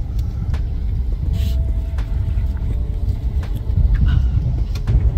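Indian passenger train carriage in motion: a steady low rumble with scattered clicks and rattles.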